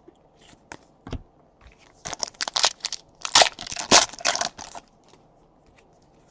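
Foil trading-card pack wrapper being torn open and crinkled, a close run of crackling about two seconds in that lasts nearly three seconds, after a few light clicks of cards being handled.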